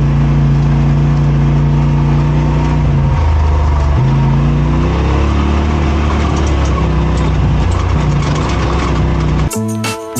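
Side-by-side UTV engine running as it drives along, with its pitch dropping about three seconds in and picking up again a second later. Music cuts in near the end.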